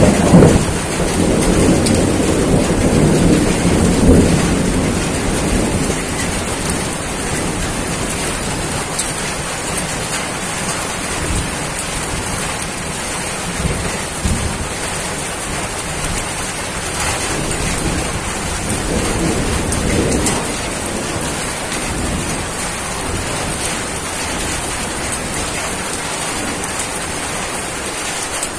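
Steady rain with a roll of thunder at the start that dies away over the first few seconds, and a fainter rumble of thunder about two-thirds of the way through.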